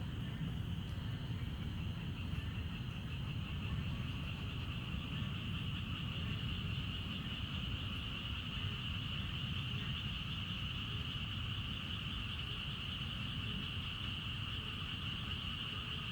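Steady chorus of insects, one continuous high-pitched buzz that grows a little stronger partway through, over a low rumble.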